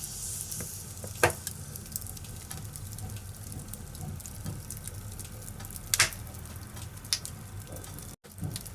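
Firewood burning in a fireplace: a steady low rumble with scattered sharp crackles and pops, the loudest about a second in and about six seconds in. The sound drops out for an instant near the end.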